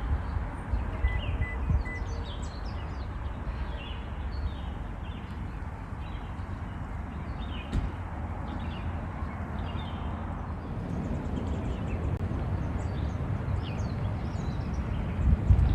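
Many short, high bird chirps scattered throughout, over a steady low rumble.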